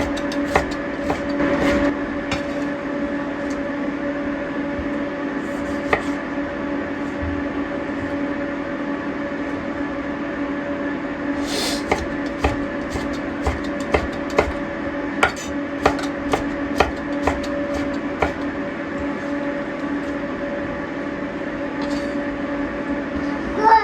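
A steady machine hum, like a running appliance, with irregular light knocks and clicks over it.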